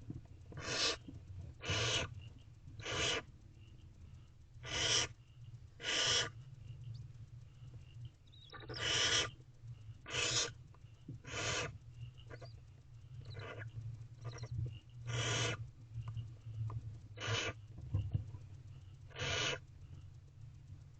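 Barn owlets in a nest box giving repeated harsh hissing, snoring calls, about a dozen in turn, each about half a second long. A steady low hum runs underneath.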